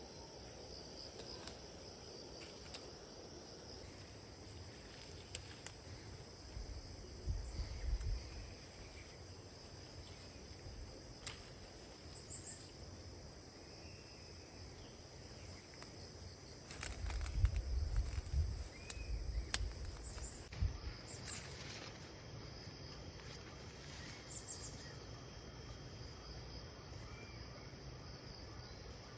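Crickets chirring steadily in the background, with scattered light clicks and a few low thumps about a quarter of the way in and again past the middle.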